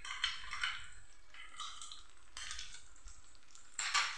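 Chopped onion, garlic and green chillies sizzling in hot oil in a small tadka pan, with a sharp metal clink of a steel ladle against the pan near the end.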